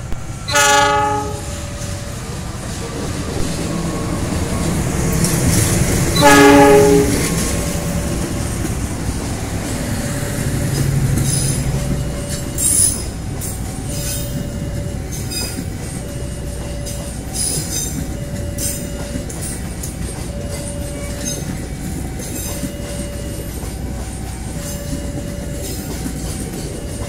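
A diesel locomotive passing close by sounds its horn twice over the hum of its engine: a short blast under a second in and a longer, louder one about six seconds in. Its passenger coaches then roll past with a steady rumble and the clickety-clack of wheels over the rail joints.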